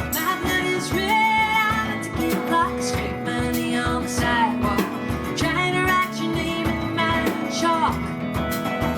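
Live folk-rock band playing a song, with guitar over a steady drum beat.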